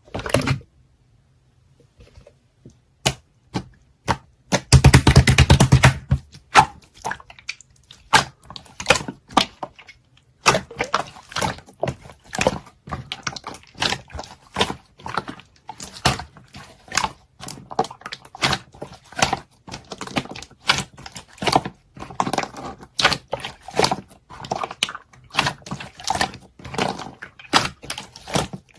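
Clear purple jelly-textured slime being pressed and squished by hand: a long run of irregular sticky clicks and squelches, with a denser, louder stretch about five seconds in.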